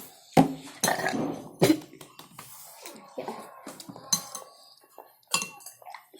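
Spoon clinking against a bowl several times: sharp, separate knocks with quieter gaps between.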